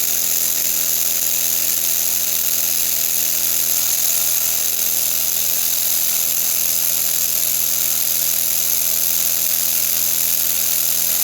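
Small battery-powered air compressor running steadily with its outlet partly blocked, its pitch shifting slightly a few times. It is not building or holding pressure, which the owner thinks might be the check valve.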